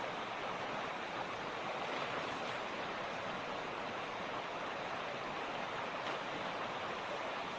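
Mountain creek rushing over stones: a steady, even flow of water.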